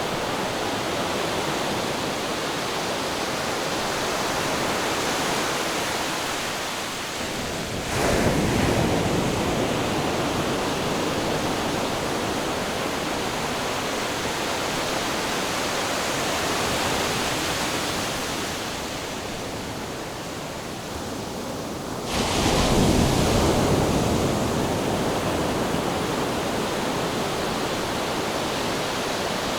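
Ocean surf: a steady wash of water, with a wave breaking about eight seconds in and another near the twenty-second mark, each surging suddenly and then easing off.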